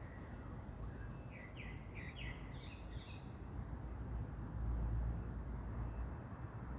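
Small birds chirping in a tree, a quick run of short high chirps between about one and three and a half seconds in, over a steady low rumble of city background noise that swells near the end.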